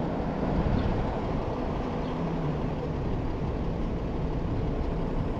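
Steady wind rumble on the microphone mixed with road noise from a moving e-bike.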